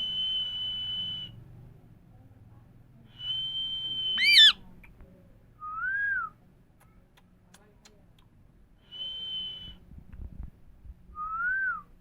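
Parrot whistling: several separate high, steady whistles about a second long, one breaking off into a sharp upward squawk about four seconds in, with shorter lower notes that rise and fall in between.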